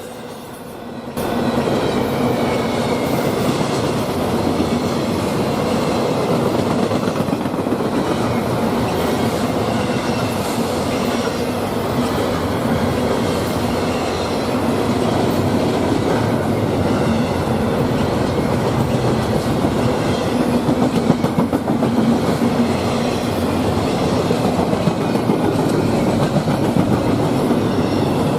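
A train rolling past at close range, a steady heavy rumble of wheels on rail with clickety-clack over the rail joints, which gets much louder about a second in and holds.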